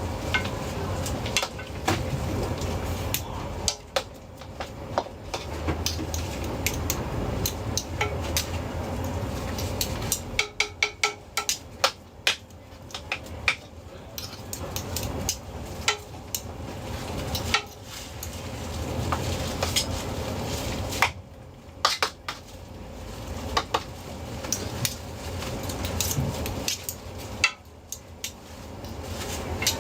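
Metal cooking utensils clinking and knocking against pots, pans and bowls in irregular clusters of sharp clicks, over a steady low hum.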